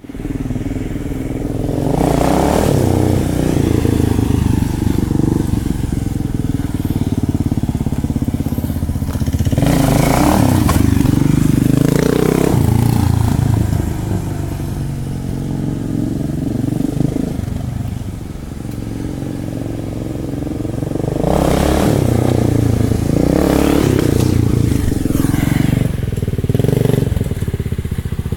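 Kawasaki KLR650's single-cylinder four-stroke engine running as the motorcycle is ridden, its pitch rising and falling several times as it speeds up and eases off, with a quieter stretch a little past the middle.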